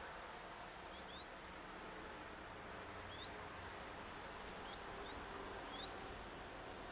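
A small bird chirping faintly: about six short, high, rising chirps, some in quick pairs, over a steady hiss.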